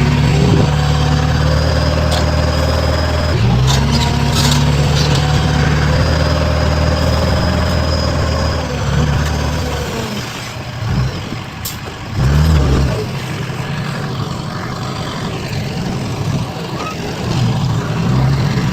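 Heavy diesel engine of construction machinery working, running strong and steady for about ten seconds with a brief dip partway. It then drops lower, with short surges of revving twice later on.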